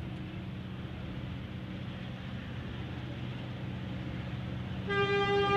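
Diesel-electric locomotives hauling a loaded iron ore train up a grade, a steady low engine drone slowly growing louder as they approach. Near the end the lead locomotive's horn starts, a loud steady chord of several tones.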